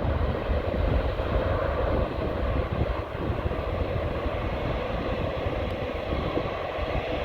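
Jet airliner's engines at takeoff power as it departs, a steady roar with a heavy low rumble.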